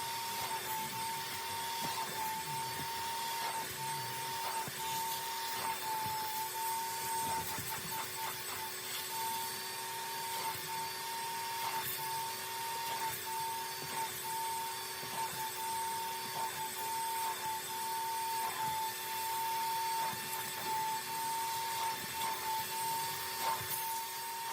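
Vacuum motor running steadily with a constant high whine, with faint intermittent rubbing strokes over it.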